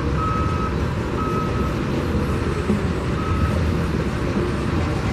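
Construction vehicle's reversing alarm beeping about once a second in a single steady tone, fading out a few seconds in, over a steady low rumble.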